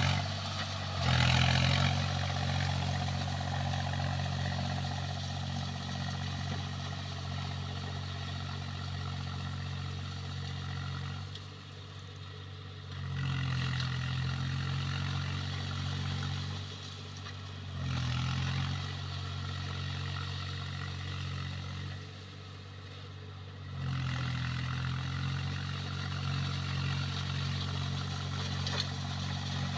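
Swaraj 735 FE tractor's three-cylinder diesel engine running steadily under load while puddling. Its note eases off twice for a couple of seconds and picks up again.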